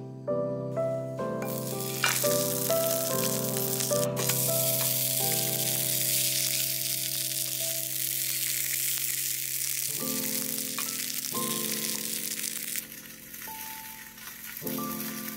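Hot oil sizzling steadily in a cast-iron skillet as a hotteok fries. The sizzle starts about a second in and gets quieter about thirteen seconds in. Soft piano music plays underneath.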